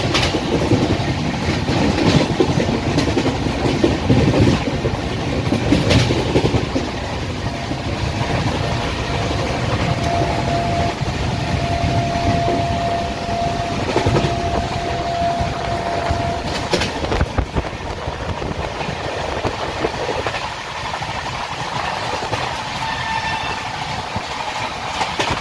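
Express passenger train running at speed, about 130 km/h: a continuous rumble with wheels clattering over the rail joints. A steady mid-pitched tone holds for several seconds midway.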